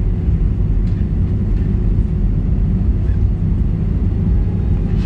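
Steady low rumble of cabin noise inside an Airbus A319 taxiing after landing, with the engines at idle and a faint steady hum over it.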